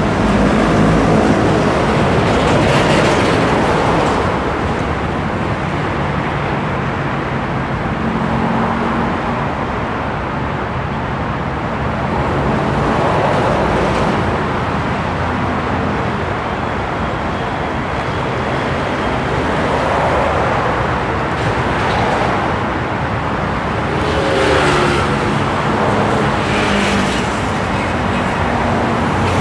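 Road traffic noise: a continuous rumble of engines and tyres, swelling several times as vehicles pass.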